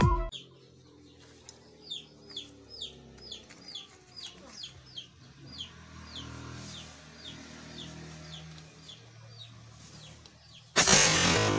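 Bird chirping: a quick run of short, high chirps falling in pitch, about two or three a second, that thins out after about six seconds over a faint low hum. Near the end a loud burst of noise cuts in abruptly.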